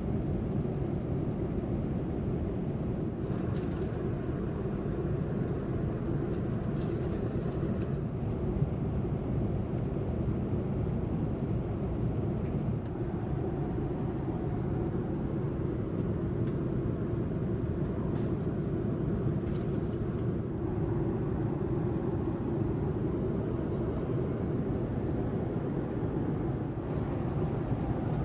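Steady low rumble of airliner cabin noise aboard a Boeing 787-9, the engines and airflow heard from inside the cabin, with a few faint clicks.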